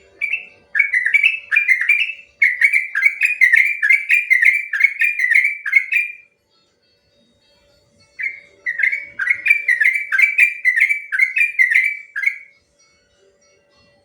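Sooty-headed bulbul (trucuk) singing its long, rapid 'ropel' song: two bouts of quick, bubbly, repeated notes, the first about five seconds long, the second about four, with a pause of about two seconds between.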